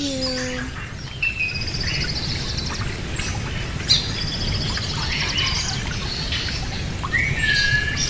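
Small birds chirping, with rapid buzzy trills and short calls, over steady low background noise.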